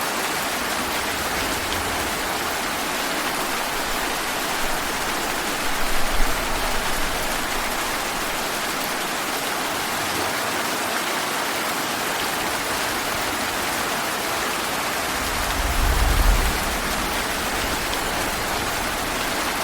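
Heavy rain falling steadily in a forest, a dense even hiss. Two brief low rumbles swell and fade, about six seconds in and again about sixteen seconds in.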